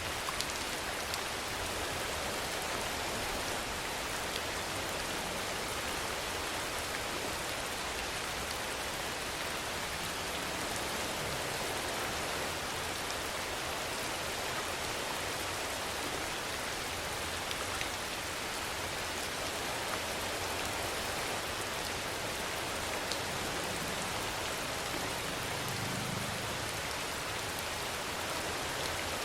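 Steady rainfall: an even, unbroken hiss of rain on surfaces, with a few individual drop ticks standing out now and then.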